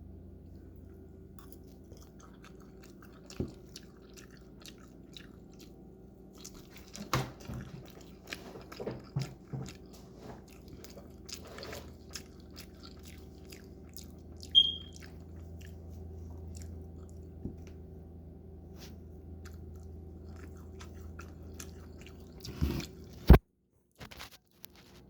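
A person chewing and biting breakfast food of waffles and sausage, with scattered mouth clicks over a steady low hum. A sharp click comes near the end, followed by a brief moment of silence.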